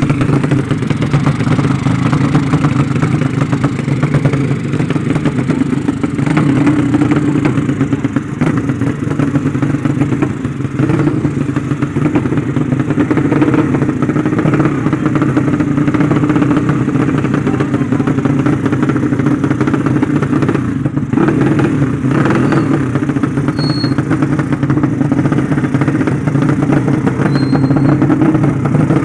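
Motorcycle engine running steadily at a constant speed, without revving up or down.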